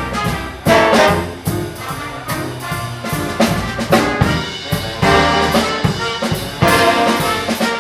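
Live big band playing swing, with trumpets, trombones and saxophones over a drum kit.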